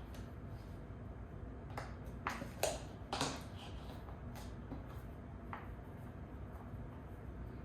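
Handful of sharp clicks and knocks from office chair parts being handled and fitted together during assembly, the loudest pair about three seconds in, over a low steady hum.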